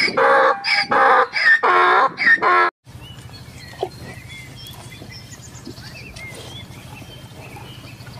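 Donkey braying: a run of loud hee-haws, about two strokes a second, that cuts off abruptly about three seconds in. A much quieter low steady hum follows.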